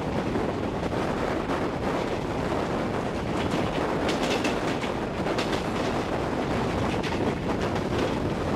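Passenger train running at speed, heard from an open door of an Indian Railways sleeper coach: a steady rumble of wheels on rail with scattered light clicks, and wind rushing over the microphone.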